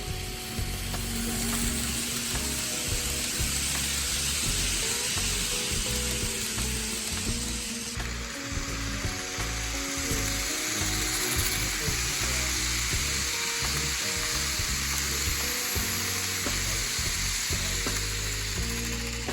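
Model trains running on the layout's track: a steady hissing rattle of wheels on rails, which changes abruptly about eight seconds in, over faint background music.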